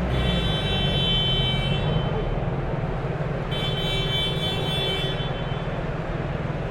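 Steady din of a crowded exhibition hall, with two long high tones of about two seconds each, the first at the start and the second about halfway through.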